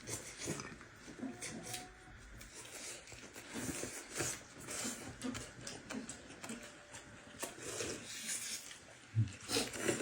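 Faint sounds of people eating: chewing with scattered small clicks and rustles as the scallion-rolled pancakes are handled.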